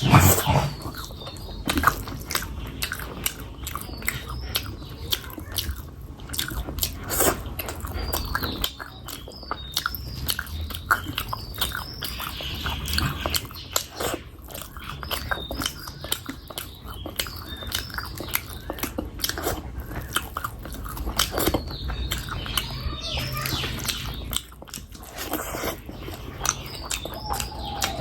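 Close-miked eating: chewing and smacking on mouthfuls of curry and rice, with many quick wet clicks and squelches.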